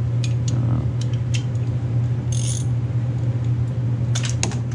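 Scattered metallic clicks and clinks of hand tools, with a short hiss about two and a half seconds in, over a steady low hum.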